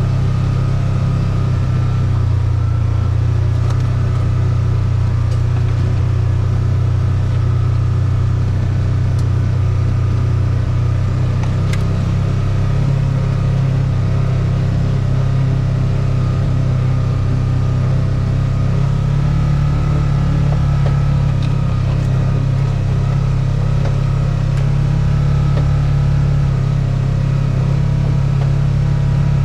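A vehicle engine running steadily at a low, even drone, its pitch shifting slightly now and then.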